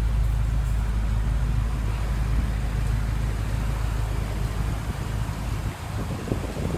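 Steady low hum of a running vehicle engine nearby, which fades about five seconds in, leaving uneven low rumbles of wind on the microphone.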